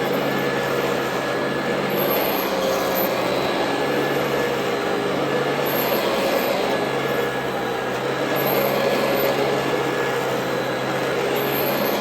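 Royal Model 2008 upright vacuum cleaner running: a steady motor hum over rushing air.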